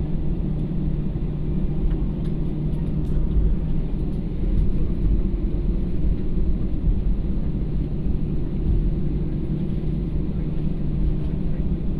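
Airliner cabin noise heard from inside the passenger cabin: a steady low rumble of engines and airflow.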